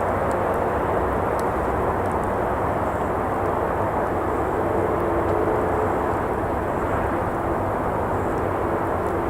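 Steady roar of traffic on a nearby road, with a faint engine hum swelling about halfway through and a few light crackles from the campfire.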